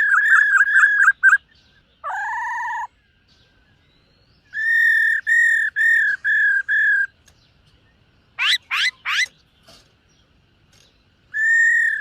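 Black-throated laughingthrush singing: runs of quickly repeated clear whistled notes, a short buzzy lower note, three fast upward sweeps about two-thirds of the way through, and a long whistled note starting near the end.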